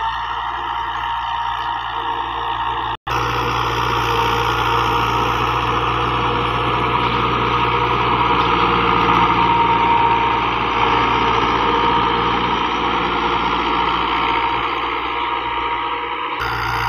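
New Holland 85 hp tractor engine running steadily. The sound cuts out for an instant about three seconds in and comes back a little louder.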